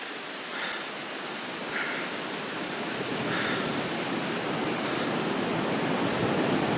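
Steady rush of water from a small waterfall where a canal spills down, growing gradually louder and fuller. A few faint rustles in the first few seconds.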